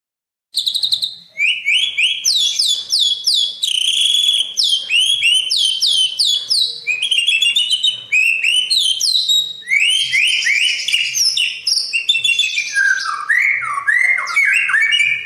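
A songbird singing a fast, unbroken string of short, high, downward-sliding whistled notes. It starts about half a second in, out of silence, and the phrases drop lower in pitch near the end.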